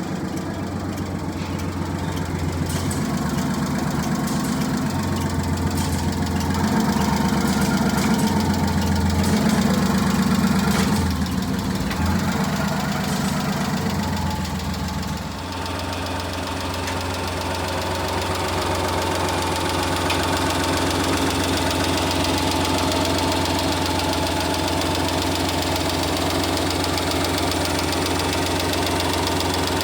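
Small three-cylinder engine of a 1997 Honda Acty kei truck running, its tone shifting several times in the first half. About halfway in the sound changes abruptly and then runs steadily at idle.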